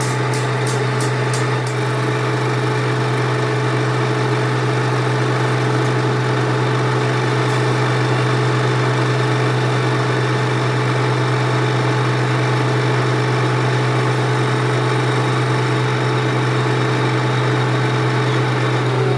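Metal lathe running steadily with a constant low hum and a few steady tones above it; sharp ticks about three a second sound for the first couple of seconds, then stop.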